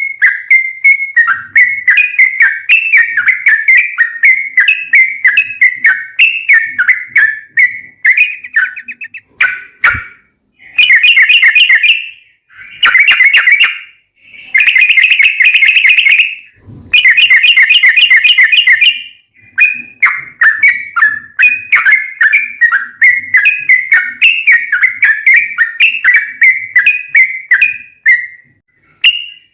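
Yellow-vented bulbul (trucukan) song: quick bubbly whistled phrases repeated over and over. About ten seconds in, four long rapid trills of a second or two each take over, then the bubbly phrases return.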